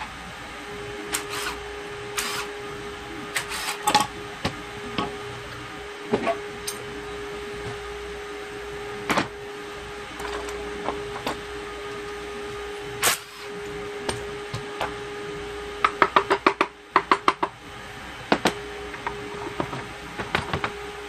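Scattered metallic clicks and knocks of hand tools working on a dismantled engine, with a quick run of about ten clicks near the end, over a steady machine hum.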